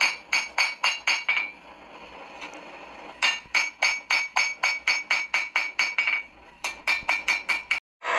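Kitchen knife chopping quickly on a cutting board: rapid, even knocks with a light ring, about five a second, in runs with a short pause, cutting off suddenly near the end.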